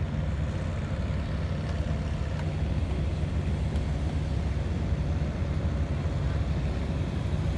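Engine running steadily with a low rumble, no revving.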